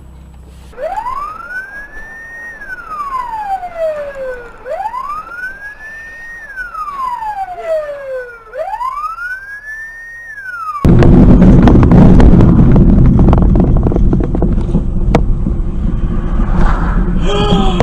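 Emergency vehicle siren in a slow wail, its pitch rising and falling three times over about ten seconds. About eleven seconds in it cuts off and a sudden loud, steady rushing noise takes over.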